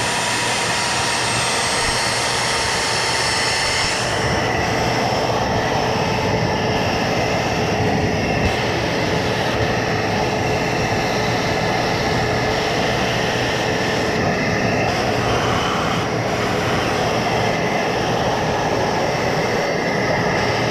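Wet/dry shop vacuum running steadily with a constant motor whine while sucking standing water out of a water heater's drip pan. Its hiss changes about four seconds in.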